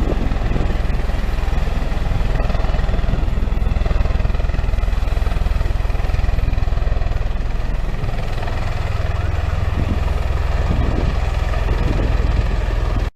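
Military jet aircraft engine noise at an air show: a steady, loud rumble with a faint whine above it, cutting off suddenly near the end.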